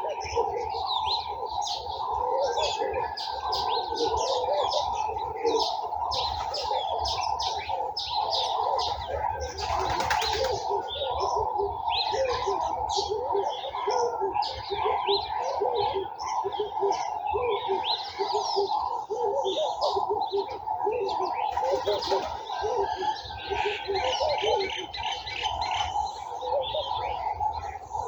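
Dense chorus of garden birds: many small birds chirping and tweeting at once over a continuous lower chatter of calls. A brief rushing noise comes about ten seconds in.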